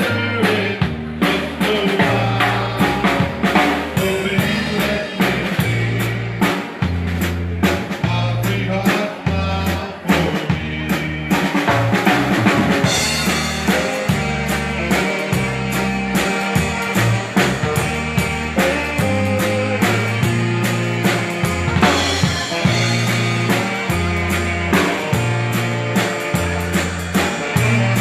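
Live Czech dance band playing, with a drum kit keeping a steady beat under a bass line and other instruments.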